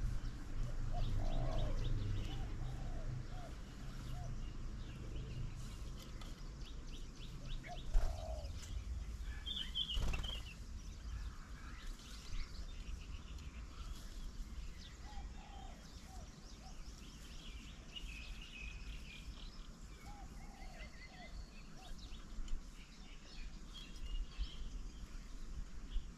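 Several birds calling and chirping around a garden bird table: short repeated notes and higher chirps scattered throughout. There is a low rumble in the first few seconds and a couple of sharp knocks partway through.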